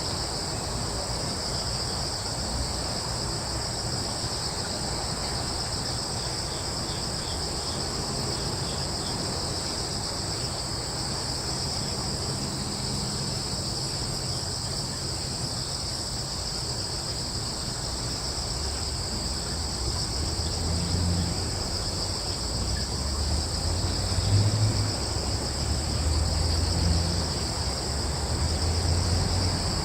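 Crickets trilling steadily in a continuous chorus. Under them, a low rumble swells several times in the second half.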